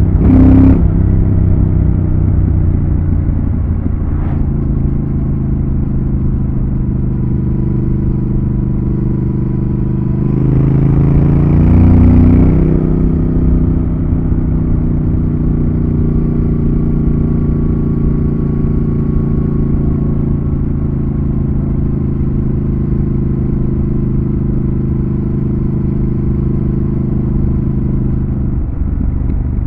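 Triumph Thruxton RS 1200 cc parallel-twin engine running steadily while riding at a constant speed. About a third of the way through the revs climb briefly and get louder under acceleration, then settle back to a steady cruise.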